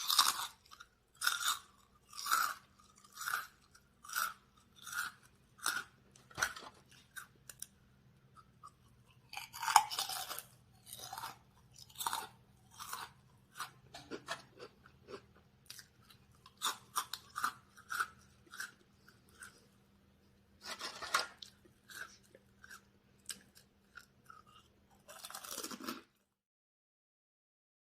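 Crunchy food being chewed close to the microphone: a run of crisp crunches at about one a second, pausing now and then, which cuts off suddenly near the end.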